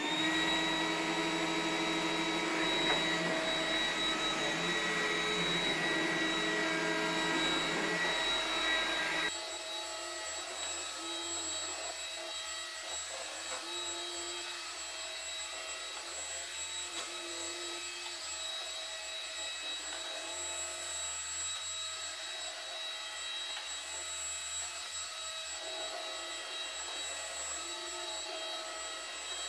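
iRobot Roomba 980 robot vacuum spot cleaning a rug: the steady whine of its suction fan and brushes. About nine seconds in it suddenly drops in level and loses its low hum, then keeps running more quietly.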